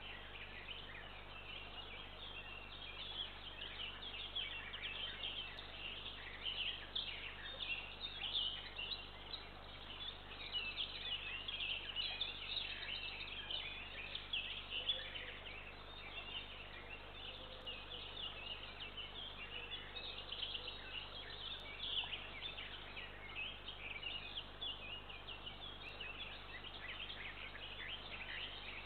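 Dense, continuous chorus of many small songbirds chirping and singing, with a steady low hum underneath.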